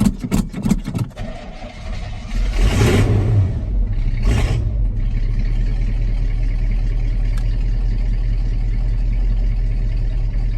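Old pickup truck's carbureted engine turning over in a rapid rhythm, then catching about two seconds in, revving up twice and settling into a steady idle.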